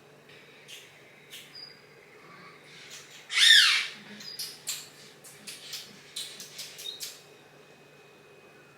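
A bird's single loud, harsh squawk about three and a half seconds in, followed by a quick run of short sharp clicks or chirps, with a faint thin whistle earlier.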